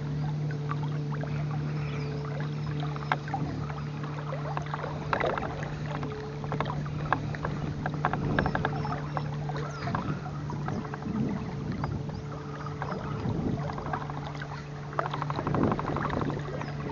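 A small boat's motor humming steadily at an even pitch, with water lapping and irregular knocks and clicks of gear against the hull.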